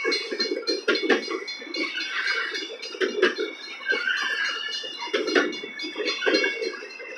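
Double-stack container well cars of a freight train rolling past close by: steady wheel-on-rail noise with irregular metallic clanks and clinks and a ringing, squealing metal tone over it.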